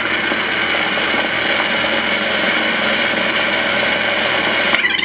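1940s wire recorder running, its motor and wire transport giving a steady mechanical whir. A click near the end, after which the sound changes.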